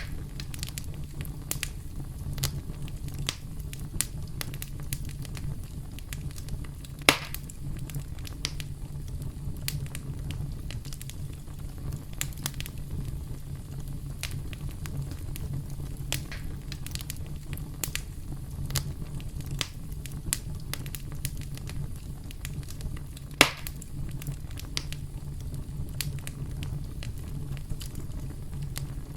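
Campfire burning with a steady low rumble and irregular crackles, with two louder pops, one about seven seconds in and one near the twenty-three second mark.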